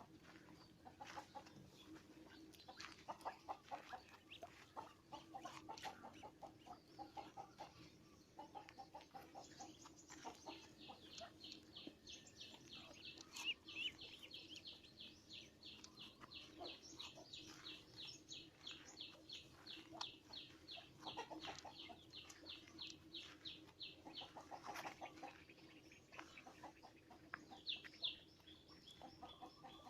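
Birds calling faintly: low, clucking notes in the first third, then a long, fast run of high, evenly repeated chirps that carries on for over ten seconds, with more high chirps near the end.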